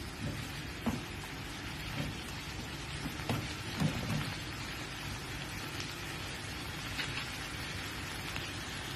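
Tofu and vegetables sizzling with a steady hiss in a hot pan as a wooden spatula stirs them. A few light knocks of the spatula against the pan come in the first half.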